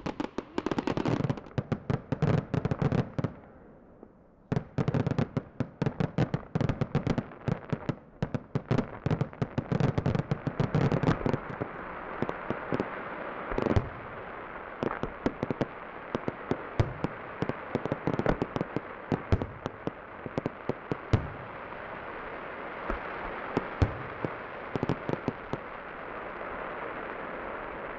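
Fireworks going off: rapid runs of crackling bangs with a brief lull about four seconds in, thinning after about twelve seconds to scattered bangs over a steady background noise.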